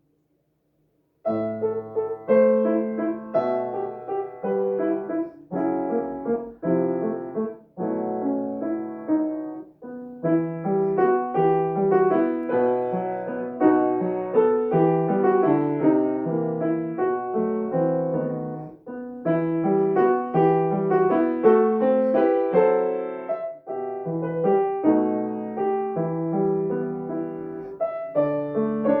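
Solo piano playing a melodic piece in phrases separated by brief pauses, beginning about a second in.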